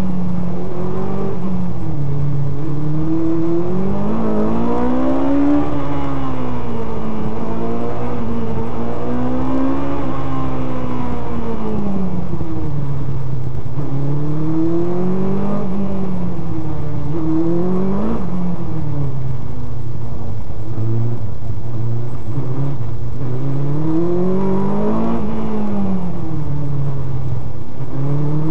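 Single-seater race car engine heard onboard, revving up and easing off again and again as the car accelerates and brakes through a cone slalom in first and second gear. The pitch rises and falls every two to four seconds, with a few sharp peaks where the revs drop suddenly.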